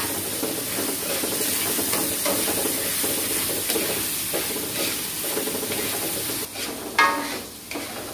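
Chili spice paste sizzling in an aluminium wok while a metal spatula stirs and scrapes through it. The sizzle drops away about six and a half seconds in, and a louder knock follows.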